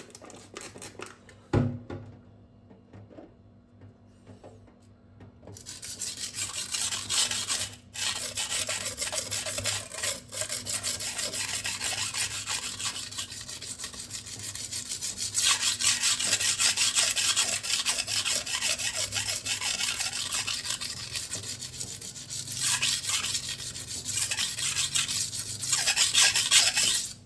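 Steel kitchen knife blade stroked back and forth on a coarse 120-grit silicon carbide sharpening stone, a continuous gritty scraping. A single knock comes about a second and a half in, the strokes start a few seconds later and pause briefly twice before running on until they stop abruptly at the end.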